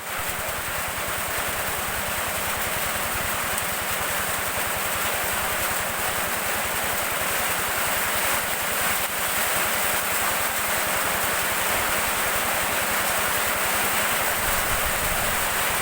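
Steady heavy rain falling, an even hiss without a break.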